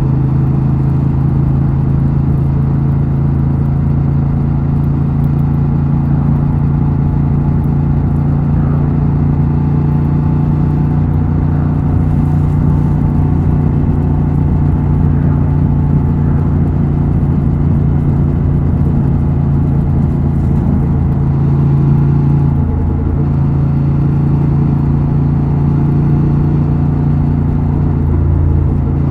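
Honda Transalp XL750's 755 cc parallel-twin engine and exhaust running at steady revs while the motorcycle rides along, with a brief swell in engine note about three-quarters of the way through.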